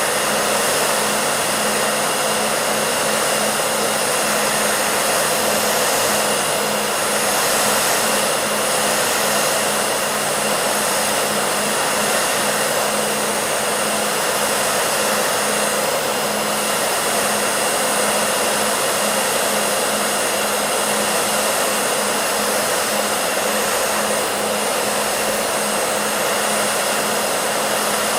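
Hair dryer running steadily: an even rush of blown air over a constant motor hum, with no change in speed.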